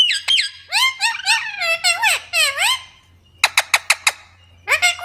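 Pet parrot calling: a run of squawking calls that swoop up and down in pitch, a short pause, then a few sharp clicks and more swooping calls near the end.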